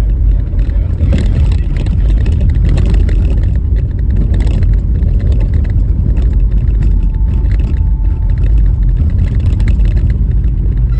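Car driving over a rough, bumpy, snow-covered road: a steady, loud low rumble of tyre and road noise, with scattered rattles and knocks from the bumps.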